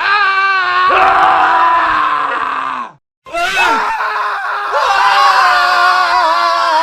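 Men screaming loudly in long, sustained cries, several voices at once. About three seconds in, the screaming cuts off for a moment, then a new stretch of screaming begins.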